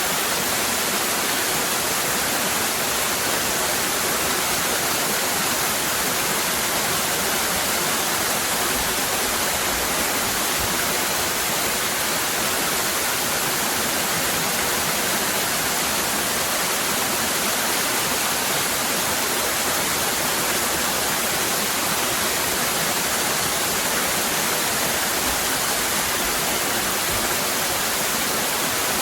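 Cascading waterfall: a steady, unbroken rush of falling water, heavy in the hiss and with little low rumble.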